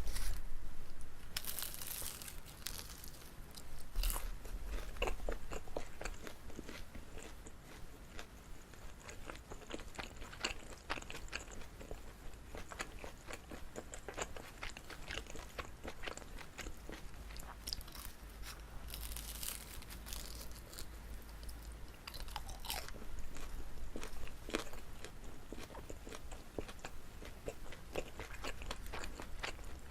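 Close-miked chewing and biting of chewy pan-fried rice cake filled with gondre greens: many sticky, wet clicks and smacks, with brief crisper crunching bites about two seconds in and again about two-thirds of the way through.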